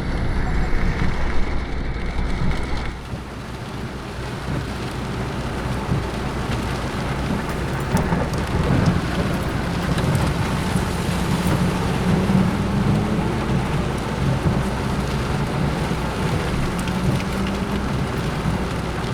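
Heavy rain falling steadily, with a low rumble of thunder in the first few seconds that fades out about three seconds in.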